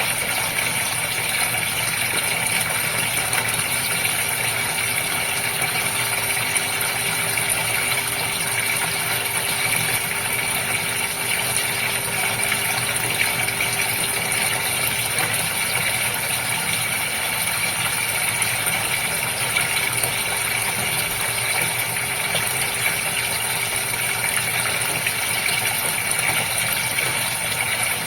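Water flowing and splashing steadily in a goldfish water feature, with a faint steady hum beneath it.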